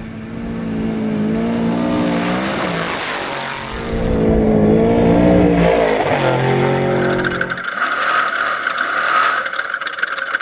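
Off-road Trophy Truck's race engine heard from the cab, its pitch rising and falling as the driver works the throttle over the terrain, with heavy rumble in the middle. About three-quarters of the way in, the engine's low note drops away and a steady high whine with rattling takes over.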